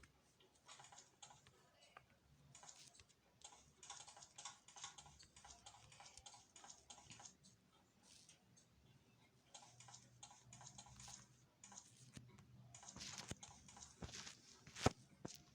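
Faint, irregular tapping and clicking of input on a device while editing, with one sharper click near the end.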